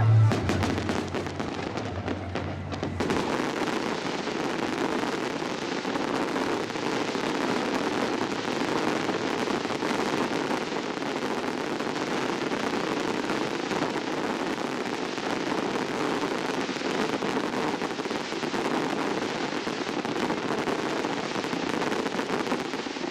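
Fireworks display: a dense, continuous run of crackling bursts and pops at a steady level, with no single bang standing out.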